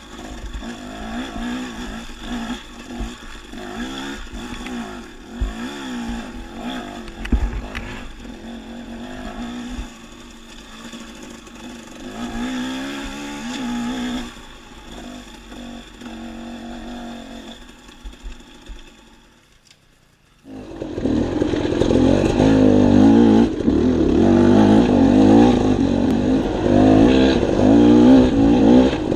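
Dirt bike engine running on a trail ride, its pitch rising and falling as the throttle is worked. About two-thirds of the way through the sound dips almost to nothing, then comes back suddenly and much louder.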